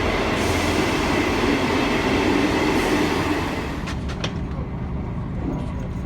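Passenger train drawing in and slowing, a loud steady rumble of running noise that drops away about three and a half seconds in, followed by a few sharp clicks.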